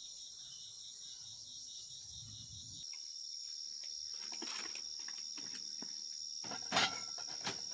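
Steady high chorus of crickets, pulsing during the first few seconds. Scattered knocks and clicks join it partway through, with one louder, sharper clack near the end.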